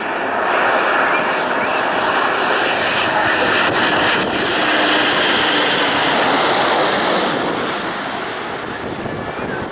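Airliner passing close by, its engine roar loud and steady, growing sharper to a peak about six seconds in and then fading.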